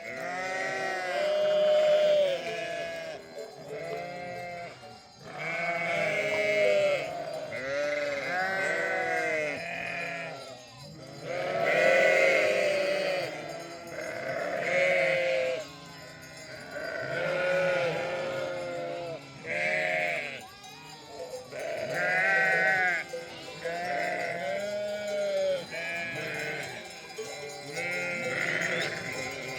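A flock of sheep bleating, many animals calling at once and overlapping continuously, the calls varying in pitch.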